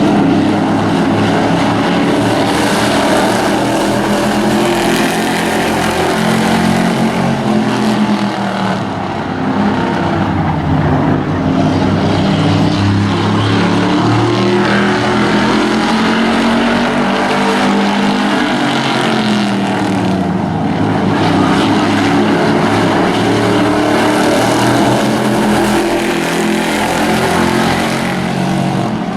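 Engines of several race trucks running together around a short oval. Their overlapping tones rise and fall as they accelerate down the straights and lift for the turns.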